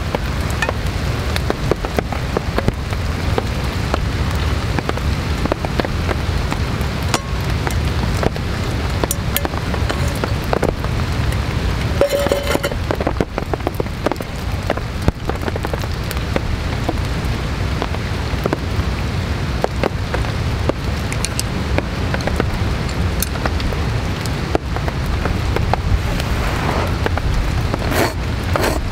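Heavy rain falling steadily: a deep, even rush with many small, sharp drop ticks throughout.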